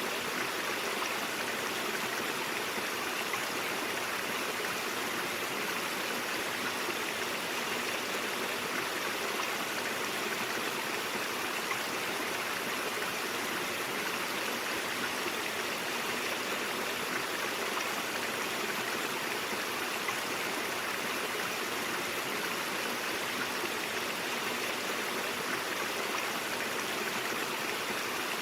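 A shallow stream running over rocks, a steady, even rush of water with no changes.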